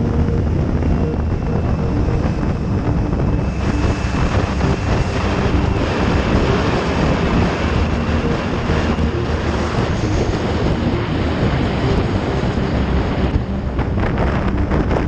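Motorcycle engine running steadily at road speed, with heavy wind noise on the microphone.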